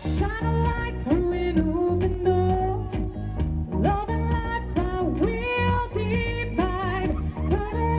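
Live pop band music: a lead singer's melody with slides and vibrato over bass and a steady drum beat.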